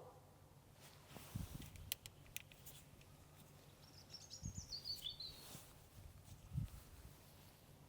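Quiet background with a faint low hum, a short phrase of bird chirps about halfway through, and a few faint thuds and clicks.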